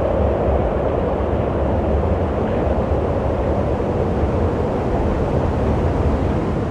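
Wind blowing steadily, a loud, even, low rushing noise with no gusts or breaks.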